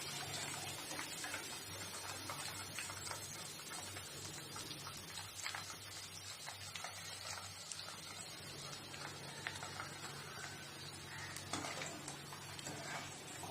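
Hot oil faintly crackling around chicken pieces deep-frying in a pan: scattered small pops and ticks over a steady low hum.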